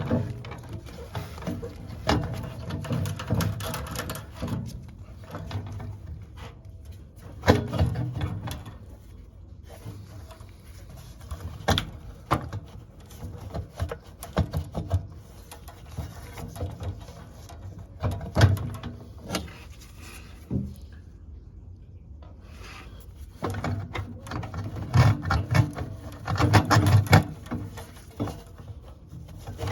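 Scattered clicks, knocks and rattles of hands working tools and small metal parts, coming in clusters with quieter gaps between. The sharpest clicks fall about a quarter, two fifths and three fifths of the way in, and a busier run of knocks comes near the end.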